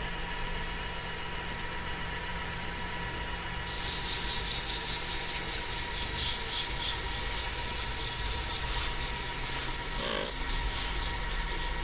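A small machine running steadily, with a hissing, rubbing sound joining about four seconds in, like sanding on a spinning workpiece, and a short louder scrape near ten seconds.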